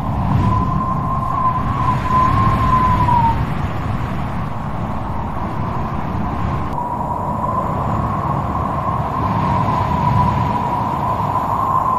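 Wind blowing hard with a low rumble and a whistling howl that wavers in pitch. The howl fades out about three seconds in and comes back about seven seconds in.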